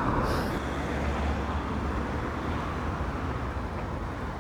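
Road traffic going past: a steady rumble of engines and tyre noise, a little louder in the first second or so.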